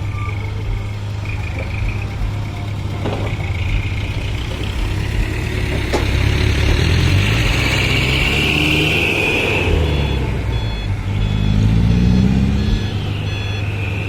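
Heavy diesel dump truck engines running at a work site, with short, repeated reversing beeps. About eleven seconds in, an engine revs up, rising in pitch.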